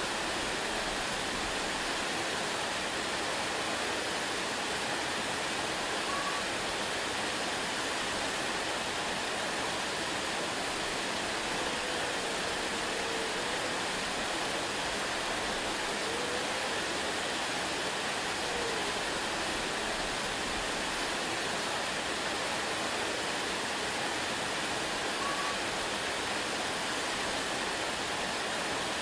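Waterfall, falling water making a steady, unchanging rush.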